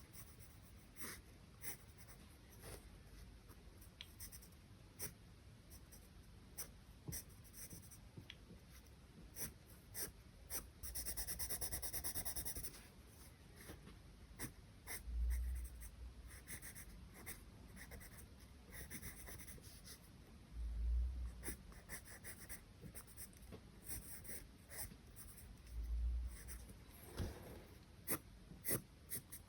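Charcoal pencil scratching on paper in short strokes and taps, with one longer continuous stroke about eleven seconds in. A few dull low thuds are heard along the way.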